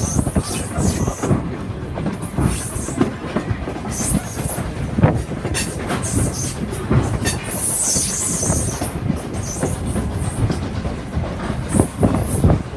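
Railroad train rolling along the track, its wheels knocking irregularly over the rails, with several short high-pitched bursts.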